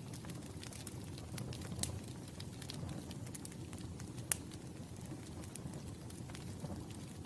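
Campfire crackling: scattered sharp pops and snaps over a low, steady rush of burning, with one louder pop a little past the middle.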